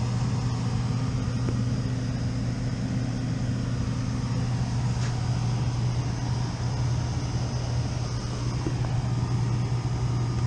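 Rooftop HVAC unit running with its blower on: a steady, strong low hum under a haze of air and fan noise, with a weaker, higher hum that drops out about halfway through. The technician finds that it sounds funny.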